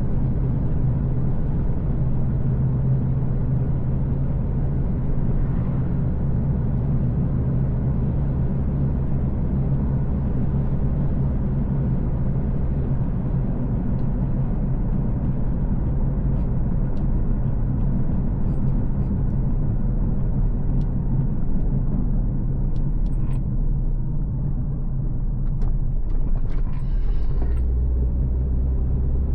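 A car being driven along a road, with a steady low rumble of engine and tyre noise. Faint scattered ticks come in the second half, and a short higher sound near the end.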